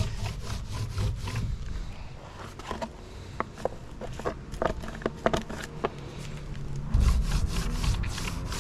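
A brush spreading resin over plywood boards: scattered rubbing and scraping strokes with light clicks and knocks, over a low steady rumble.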